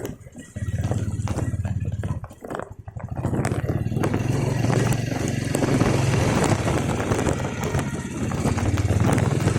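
Motorcycle engine running steadily, its sound dropping away briefly twice in the first three seconds before picking up again.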